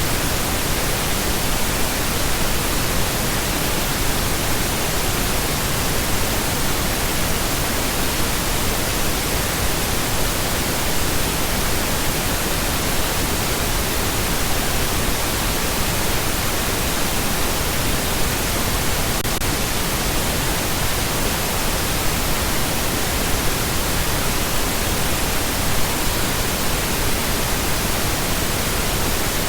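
Continuous pink noise: a steady, even hiss spread across all pitches, with no change over time.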